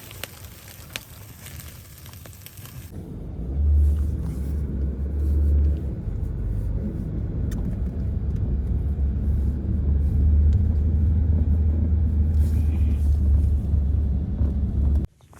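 Faint crackling for about three seconds, then a loud, steady low rumble that cuts off suddenly near the end.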